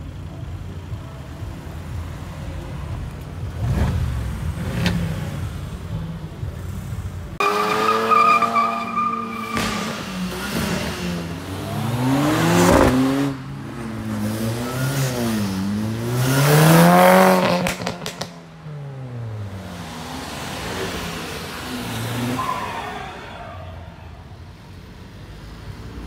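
Tuned cars driving past in turn, engines and exhausts revving hard. About seven seconds in the sound changes abruptly to engines whose pitch climbs and drops several times as they accelerate, loudest in the middle, then quieter engine noise.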